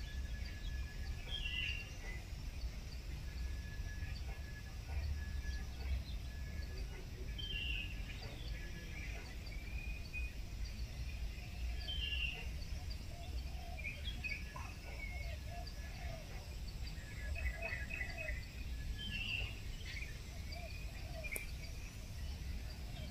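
Wild birds chirping and calling every second or two over a steady low outdoor rumble, with a run of short repeated high notes in the first half.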